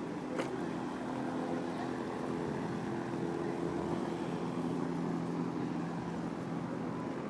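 A car engine running steadily at idle. A short click sounds about half a second in.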